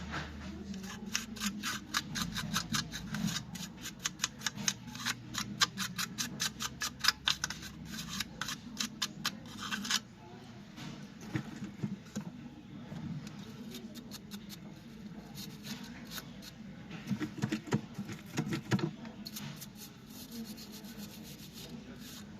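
Quick rubbing strokes on a laptop part during cleaning, about three or four a second for the first ten seconds, then slower and more scattered.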